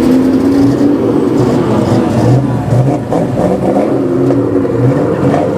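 Car engines revving and accelerating, their pitch rising and falling several times.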